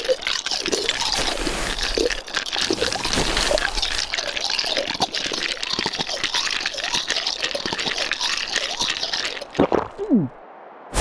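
Water gurgling and bubbling, a dense splashing hiss with short wobbling gurgles through it. It cuts off suddenly about a second before the end, leaving a much quieter hiss.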